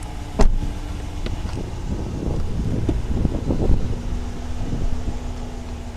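Pickup truck engine idling under wind buffeting the microphone, with a single sharp knock about half a second in.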